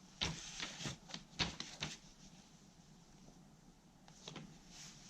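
Light clicks and knocks of small objects being handled: a quick run of about six in the first two seconds, then two more near the end.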